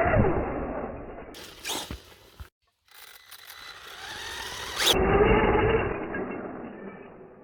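Brushless electric motor of a 1/10 Redcat Volcano RC truck on a 4S system whining as it is driven, the pitch rising and falling with the throttle, over rough tyre and ground noise. The sound drops out briefly at a cut about two and a half seconds in.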